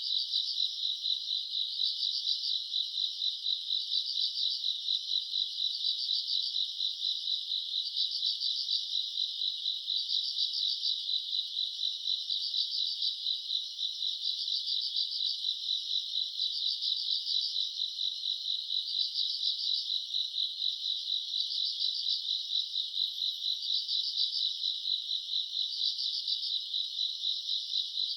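Summer-night chorus of grass insects: a dense, steady high trill with a brighter chirping pulse repeating about once a second.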